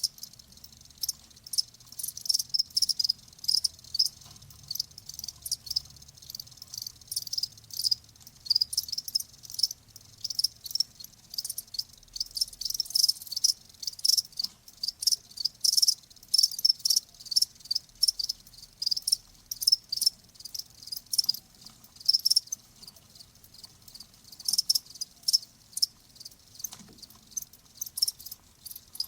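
Crickets chirping: short, high-pitched chirps repeated rapidly and unevenly.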